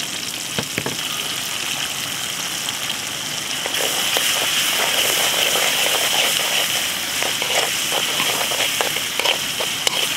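Food sizzling as it fries in hot oil in a pan, with scattered pops. The sizzle gets louder about four seconds in.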